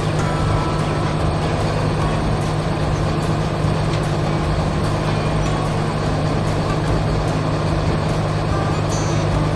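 Heavy truck engine running steadily with a constant low hum, no changes in pitch or level.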